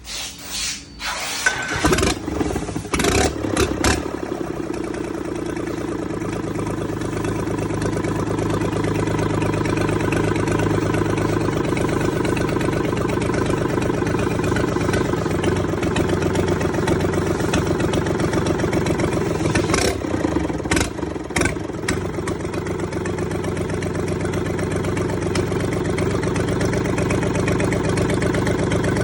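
3D84-2 three-cylinder diesel engine starting, with a few uneven bursts before it catches about four seconds in, then running steadily. A few sharp clicks about twenty seconds in.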